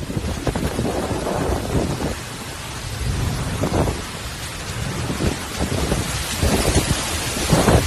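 Hurricane storm: heavy rain and strong wind gusting over the microphone with a low rumble, easing a little midway and building again near the end.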